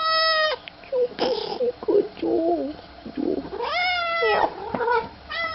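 Domestic cat meowing over and over in long, loud calls, with shorter meows between them, as it greets its owner.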